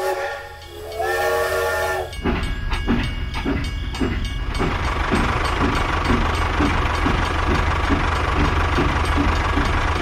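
Steam train sound: a short whistle blast, then a longer one, followed by the locomotive's steady rhythmic chuffing over a low rumble.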